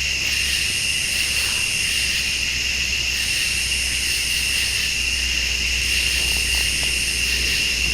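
Dense chorus of crickets and late-summer insects: a steady high trilling in several pitches, the highest layer fading out and back in every two to three seconds. A steady low rumble runs underneath.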